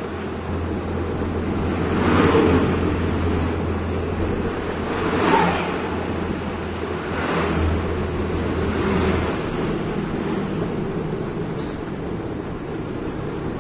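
Heavy diesel engine running steadily, with four rushing swells of noise passing over it.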